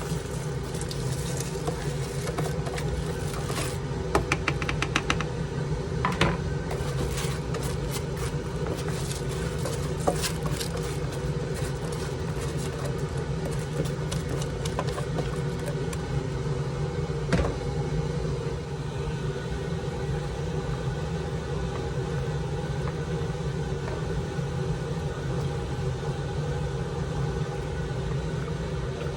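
Rice being added to a pot of boiling water and worked in with a spoon: scattered clinks and taps, most of them in the first several seconds, with a quick rattling run about four seconds in. A steady low rumble runs underneath throughout.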